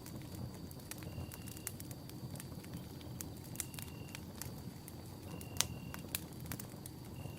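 Wood campfire burning: a steady low rumble of flames with frequent sharp crackles and pops, the loudest pop about five and a half seconds in. Behind it, a short high note repeats about every second and a half.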